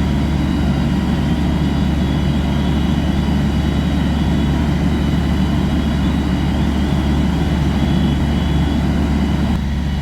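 Heavy diesel engine of fire apparatus running steadily, a constant low rumble with a faint steady whine above it.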